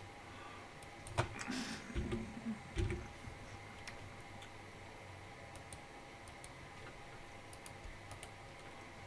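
Steel sine bar being handled and set on a lathe's compound rest: a few sharp metal knocks and a short scrape about a second in, then only faint ticks.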